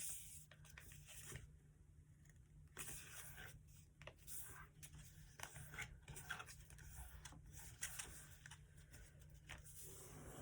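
Faint rustling and crinkling of a sheet of paper being folded and creased by hand, in irregular bursts with a few small clicks.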